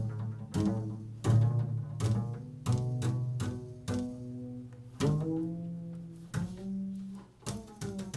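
A low plucked string instrument playing an improvised, unaccompanied melody, one or two notes a second, each note ringing on after a sharp pluck, with one note sliding upward about five seconds in.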